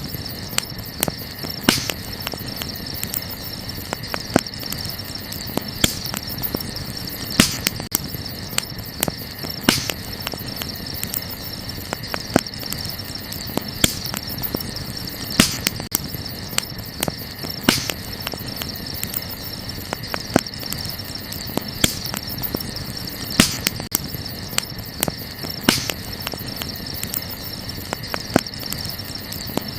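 Burning wood crackling, with sharp, irregular snaps and a few louder pops, over a steady high chirring of crickets.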